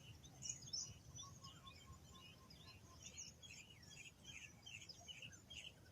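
Faint chirping of several small birds: many short, quick high notes overlapping throughout.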